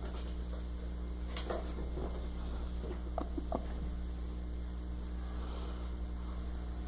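Steady electrical mains hum, with a few short rustles and scuffs from a dachshund playing with a pillow.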